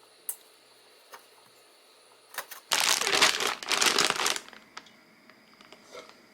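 Plastic being handled in the kitchen: a few light clicks, then about a second and a half of dense crinkling rustle, then a few faint ticks.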